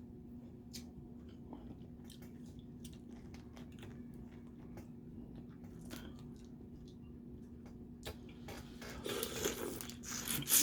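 Close-miked eating of boiled crawfish: scattered small clicks and cracks of shell, then louder chewing in the last couple of seconds.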